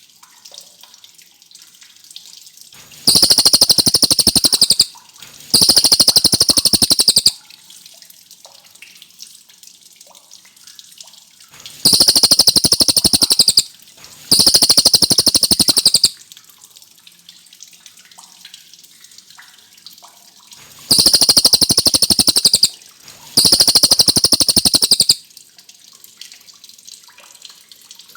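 Cililin songbird singing loud, rapid rolling trills, phrases of about two seconds that come in three pairs, with quiet gaps of several seconds between the pairs. This is a clear, insistent 'gacor' song of the kind played to tutor murai batu songbirds.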